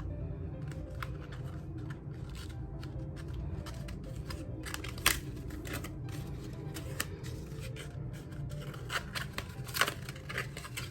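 Adhesive paper being handled and pressed onto a cardboard tube: scattered crinkles and sharp clicks, the loudest about halfway through and another cluster near the end, over a steady low background hum.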